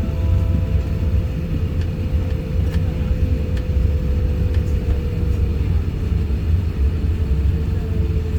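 Cabin noise inside an Airbus A350-1000 airliner: a steady low rumble with a thin steady whine above it.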